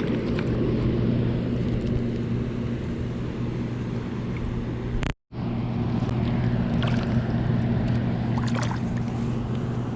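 Boat motor running steadily with a constant hum over wind and water noise. The sound cuts out completely for a moment about five seconds in.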